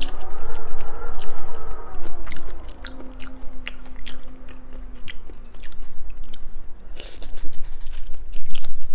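Close-up chewing and biting of seafood: wet mouth sounds with many short, sharp crunchy clicks scattered throughout.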